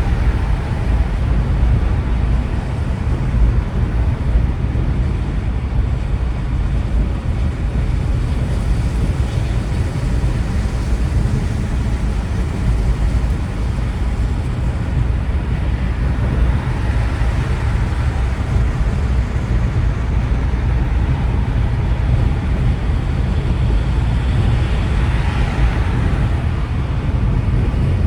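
Steady low rumble of a car driving in traffic: engine and road noise. Twice a broader rush of higher noise swells and fades, about 17 and 25 seconds in.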